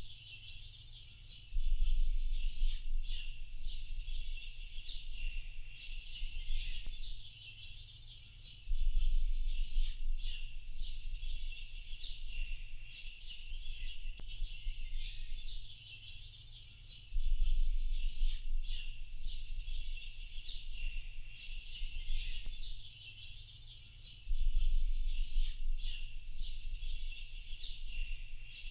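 A dense chorus of small birds chirping and twittering without a break. Under it, a low rumble comes in suddenly about every seven to eight seconds and dies away over several seconds.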